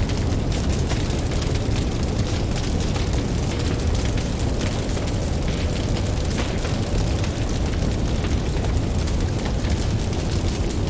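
Campfire crackling and popping over a steady low rumble of ocean waves.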